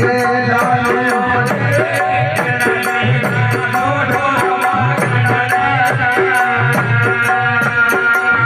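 Rajasthani devotional folk music (a bhajan accompaniment) playing without the singer: a sustained melody line over a deep hand-drum beat and a quick, steady jingling of metal percussion.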